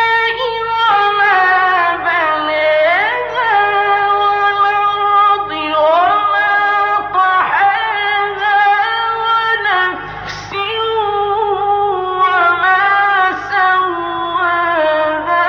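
Male reciter chanting the Quran in the melodic mujawwad style. He draws out long ornamented vowels in several long phrases, the pitch gliding up and down in melismatic runs.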